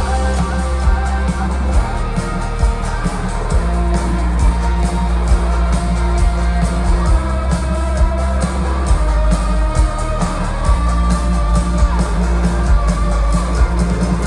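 Live folk-rock band playing, with guitars over a heavy bass and a steady drum beat.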